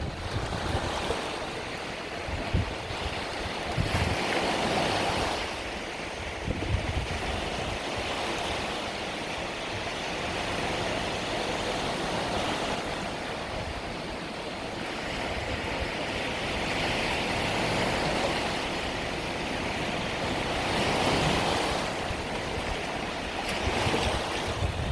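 Small Mediterranean waves breaking and washing on the shore, the surf swelling and fading every few seconds, with some wind on the microphone.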